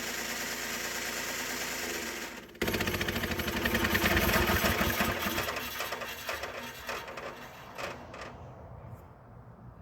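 Harbor Freight bandsaw sawmill running through a cedar log. About two and a half seconds in, a sudden loud clatter breaks out and then fades over several seconds with a few last clicks as the mill winds down: the band blade has popped off and jumped behind while the mill was cutting at its full width.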